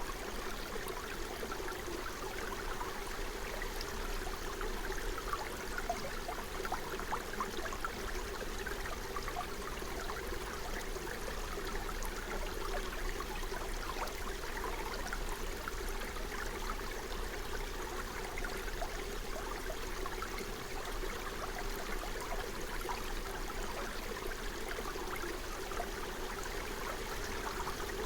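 Small forest stream running steadily over stones, with the busy babble of water.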